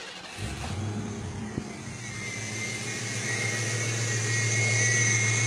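Ford 5.0L Mustang V8 catching about half a second in and then running steadily, getting louder. It runs only after its Motorcraft TFI ignition module is twisted, the sign of a bad or loose module.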